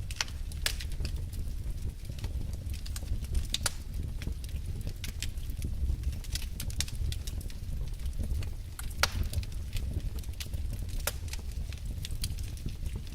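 Wood fire burning in a fireplace: a steady low rumble of flames with irregular sharp crackles and pops from the burning logs, one louder pop about nine seconds in.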